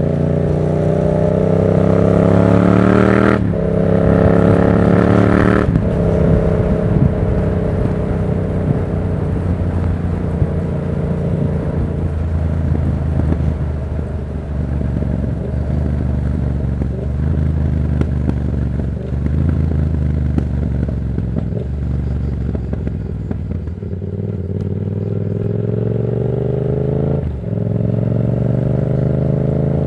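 Yamaha MT-07's 689 cc parallel-twin through a Black Widow aftermarket exhaust, ridden hard. It revs up through two quick upshifts at the start, each marked by a sudden drop in pitch. It then settles to low, uneven revs for a long stretch, and near the end accelerates again with another upshift.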